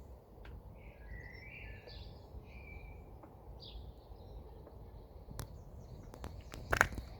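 Birds chirping over a steady low outdoor background rumble, with a sharp click or knock near the end.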